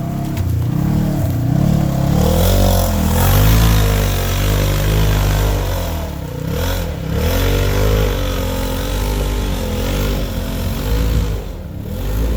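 Polaris RZR side-by-side engine driven hard, the revs rising and falling again and again.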